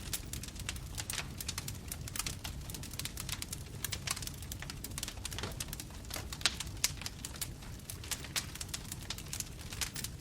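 Bonfire burning with a steady low rumble of flames and dense, irregular crackling and popping of the burning wood.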